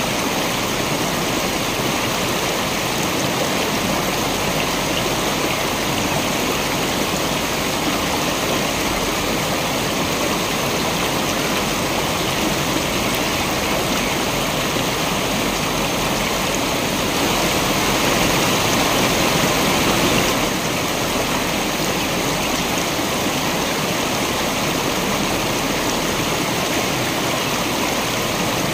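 Waterfall: a steady rush of falling water, slightly louder for about three seconds two thirds of the way through.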